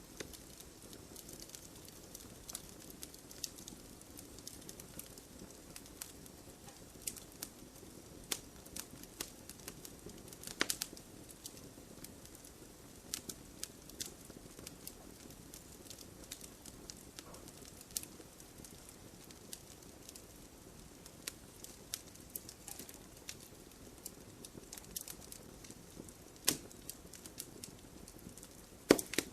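Wood fire burning with a low hiss and irregular crackles and pops, a few louder snaps among them.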